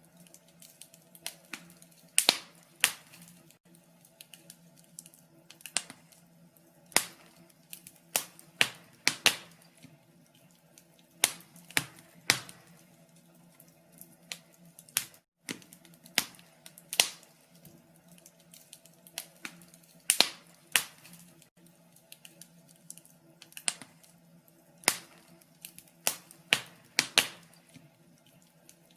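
Wood fire in a fireplace crackling, with irregular sharp pops and snaps, a few loud ones among many small ticks. Under them runs a faint low steady hum. Near the middle the sound cuts out for a split second.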